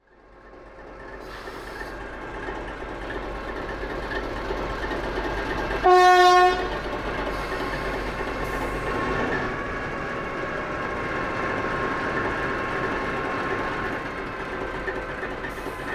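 A train running with a steady whine, fading in at the start, and one short horn blast about six seconds in.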